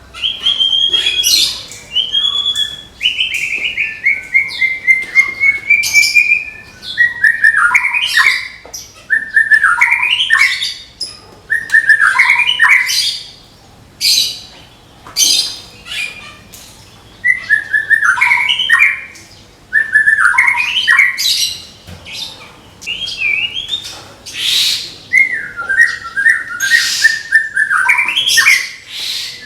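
White-rumped shama (murai batu) singing its loud 'tembakan' song: whistled phrases, many falling in zigzag steps, mixed with sharp, piercing notes and repeated every couple of seconds with short pauses between.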